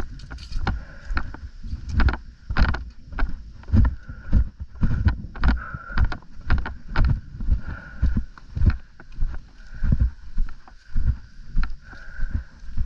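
Steady walking footsteps, about one and a half steps a second, each a thump with a light rattle of gear.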